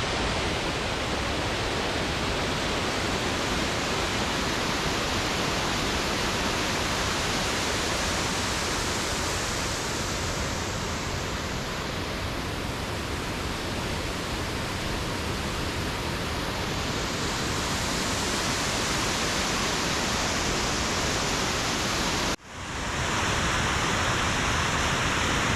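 Waterfall rushing close by: a steady, even rush of falling water that cuts out for an instant near the end and comes straight back.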